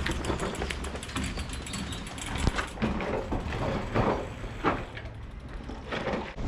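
Brompton folding bike freewheeling: the rear hub's pawls tick rapidly and evenly for the first couple of seconds, over a steady rumble of tyres and wind on the microphone, with a few sharper clicks later.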